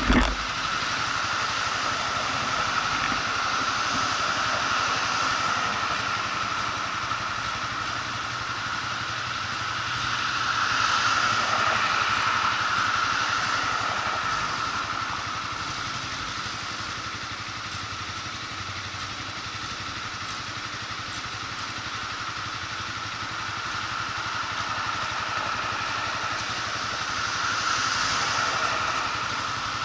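Motorcycle running steadily on the move, a constant rushing noise with a steady tone over it. It swells louder about a third of the way in and again near the end.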